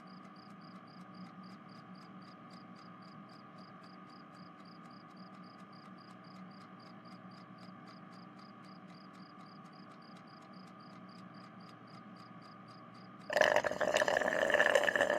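A faint steady background with even, rapid ticking, about four or five ticks a second. About thirteen seconds in, a loud, long cartoon burp sound effect starts and lasts about three seconds.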